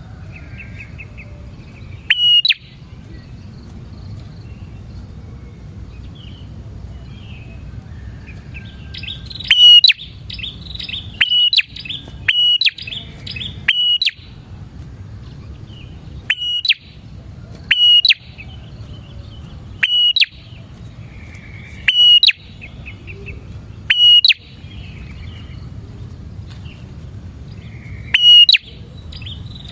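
Prenjak (prinia) calling: loud, sharp single call notes repeated every couple of seconds, with a quick run of four or five notes about ten to fourteen seconds in, over softer twittering and a steady low hum.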